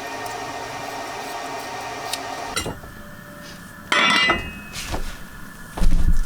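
A steady hiss stops abruptly about two and a half seconds in. About four seconds in comes a loud ringing clink, like metal or glass knocked together, and near the end a heavy thump.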